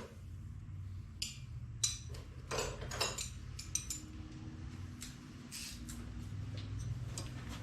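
Hand tools clinking and tapping against metal in short scattered clicks, most of them in the first four seconds, as nuts are taken off a tractor fuel tank. A steady low hum runs underneath.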